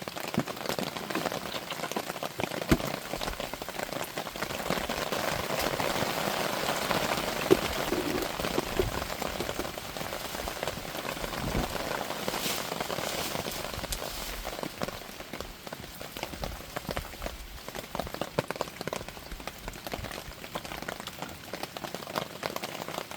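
Heavy rain pattering steadily, a dense hiss of countless drops that grows heavier for several seconds in the middle, with a couple of sharp knocks early on.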